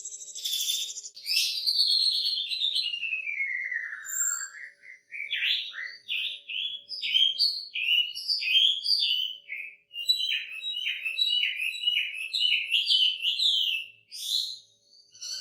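Chinese hwamei (wambi) singing: a long whistle falling steadily in pitch, then quick runs of short down-slurred notes, broken by brief pauses.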